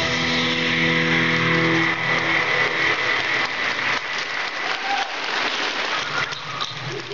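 The last held chord of the dance music dies away over the first two seconds, giving way to audience applause, a dense patter of clapping.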